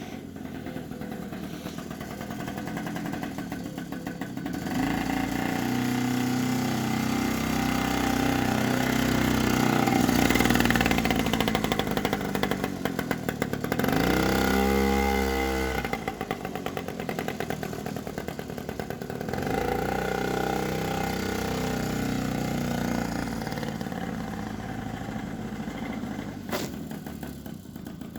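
Suzuki LT50 quad's swapped-in Puch two-stroke engine running, its revs rising and falling several times as the throttle is worked.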